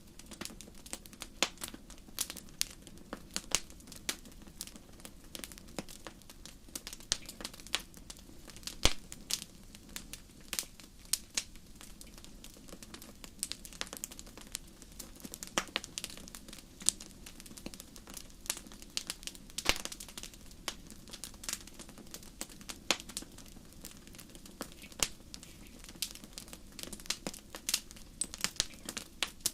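Wood campfire crackling: irregular sharp snaps and pops over a low, steady rush of burning.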